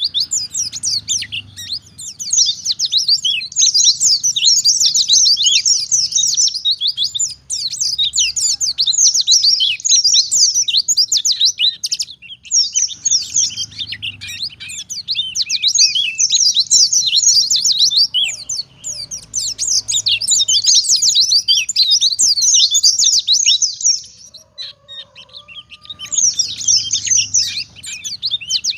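A white-eye (pleci) singing a fast, continuous, high-pitched twittering song in long runs, broken by brief pauses about 12 seconds in and again near the end. It is the full, nonstop song that keepers call gacor.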